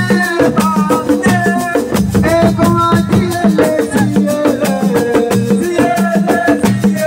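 Live assiko band music: a pitched melody over dense, fast percussion with a shaker and drums.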